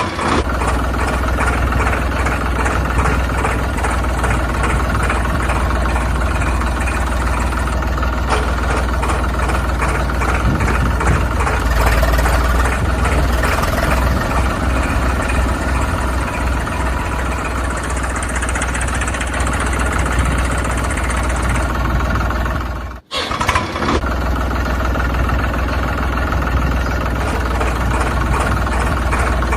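Small engine of a DIY mini tractor running steadily with a fast, even beat. It breaks off for a moment about 23 seconds in, then carries on.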